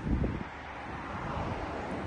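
Wind buffeting the microphone in low gusts near the start, then a broad rushing noise that swells through the second half.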